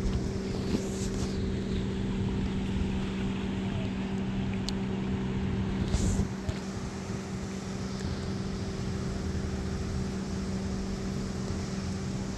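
An engine running steadily with a constant-pitched hum, over a low rumble of wind on the microphone.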